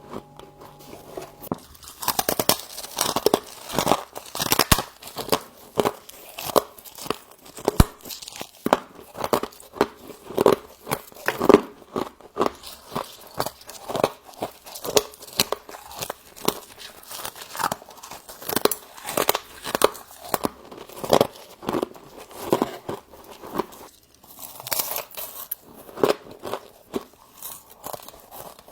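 Close-miked biting and chewing of built-up frozen frost, a rapid run of crisp crunches that starts about two seconds in.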